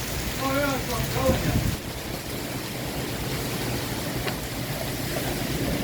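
Heavy rain falling steadily, with a short burst of voice about half a second in.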